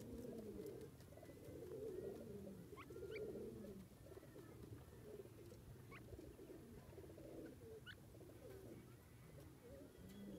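Faint, low cooing bird calls, repeated through the stretch, with a few short high chirps.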